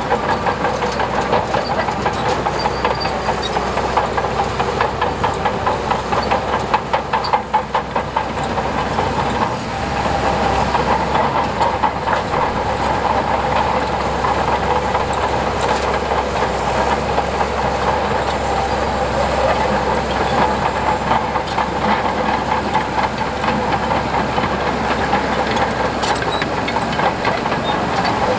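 Diesel engine of heavy tracked earthmoving machinery running steadily with a steady whine and a rapid metallic clatter, dipping briefly about a third of the way through.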